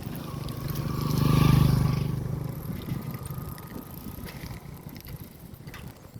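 A motor vehicle passing close by: its engine grows louder, peaks about a second and a half in, then fades away.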